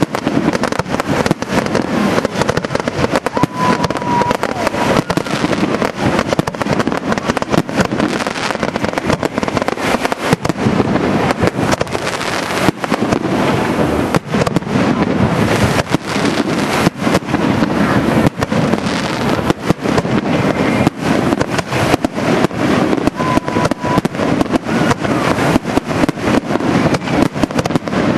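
Fireworks display: a dense, unbroken string of bangs from aerial shells, several a second.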